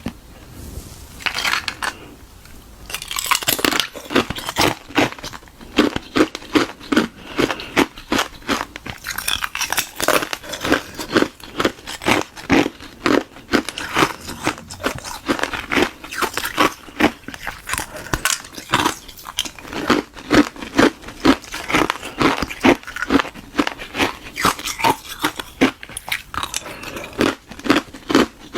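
Hard ice being bitten and chewed, crunching and cracking in quick, irregular bites several times a second, with a short pause about two seconds in. The ice is a hollow shell frozen in a balloon, packed with frozen milk tea.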